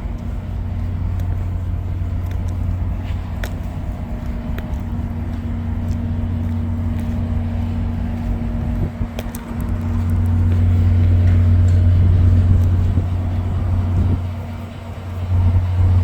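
A large engine idling with a steady low rumble and a faint hum above it; the loudness drops briefly about nine seconds in and again near the end.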